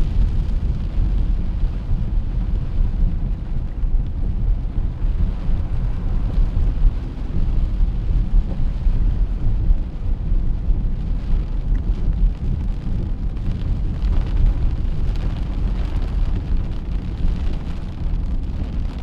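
Wind buffeting the microphone: a loud, steady, rough low rumble that rises and falls in small gusts.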